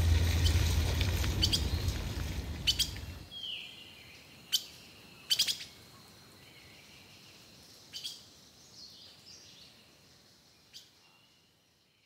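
A low rumble that fades out about three seconds in, then scattered short bird chirps over a faint background.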